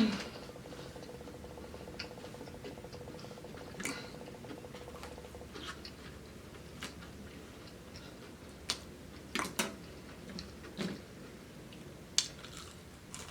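A person chewing fried chicken, with scattered soft smacks and clicks. A faint steady hum stops about five seconds in.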